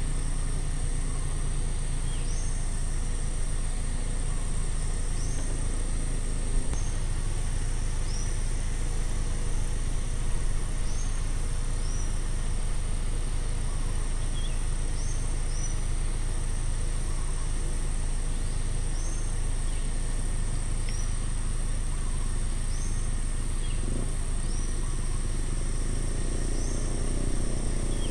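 Outdoor ambience: a steady high-pitched insect drone, with a bird giving a short high chirp about every two seconds, over a low steady rumble.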